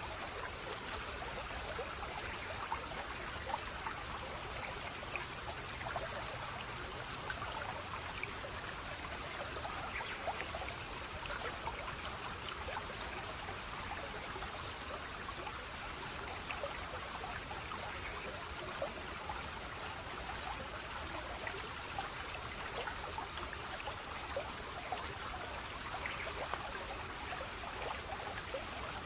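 Running water, a small stream trickling and splashing steadily, with many small droplet splashes throughout.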